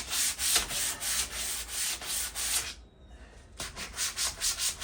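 Sandpaper rubbed back and forth in quick strokes on a metal patio table leg, scouring off surface rust. The strokes stop briefly about three seconds in, then start again.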